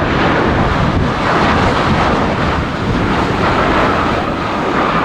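Boeing 737-800's CFM56 jet engines running loud with a steady rushing noise. A whine comes in about three seconds in and falls slightly in pitch. Wind buffets the microphone.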